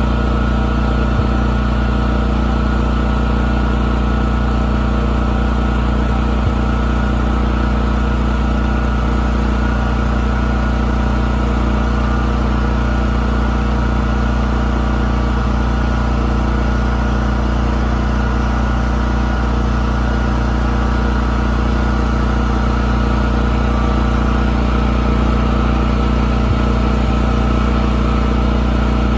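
Radio-controlled model boat's engine running steadily at an even, unchanging speed.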